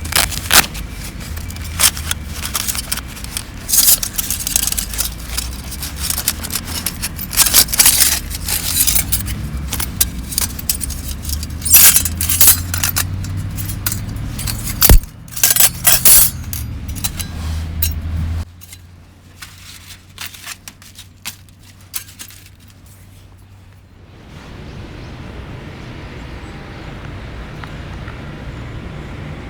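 Small metal items clinking and clattering in quick, irregular runs over a low rumble. The rumble drops away about eighteen seconds in, leaving a few scattered clinks, then a steady hiss near the end.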